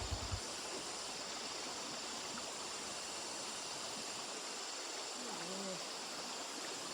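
Steady rushing of flowing stream water, with a brief faint vocal sound about five and a half seconds in.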